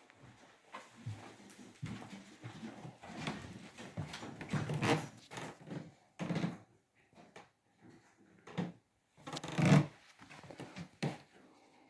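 Irregular knocks, thumps and rustling of someone moving about and handling things in a small room, the loudest thump just before the tenth second.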